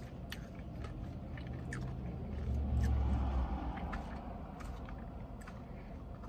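Close-up eating sounds, chewing with small clicks and crunches, inside a parked car. A low vehicle rumble swells about two and a half seconds in and fades again.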